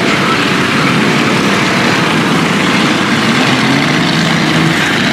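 Off-road truck engine running steadily, under a loud, even noise.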